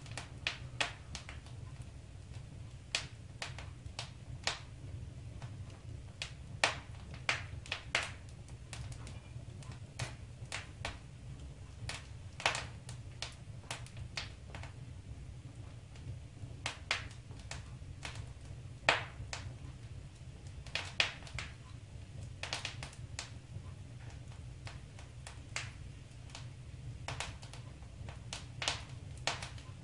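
Wood fire in a fireplace crackling: irregular sharp pops and snaps, one or two a second, over a steady low rumble.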